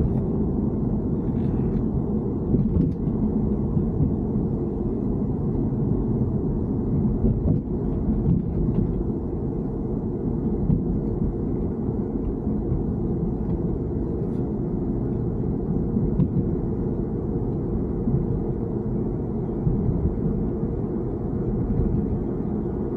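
BMW 3 Series (E90) running, a steady low rumble with a few faint ticks, recorded to capture a noise the owner considers abnormal.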